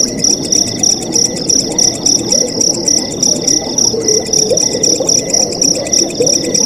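Night crickets chirping in a steady, rapid pulse, several chirps a second, with other insects trilling alongside. Short low calls come and go over a soft wash of running water.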